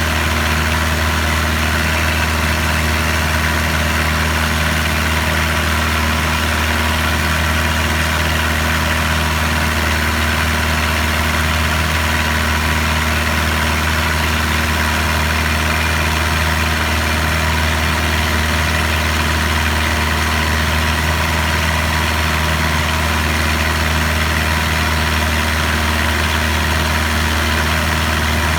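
A boat's engine running steadily under way, a constant low drone with no change in speed.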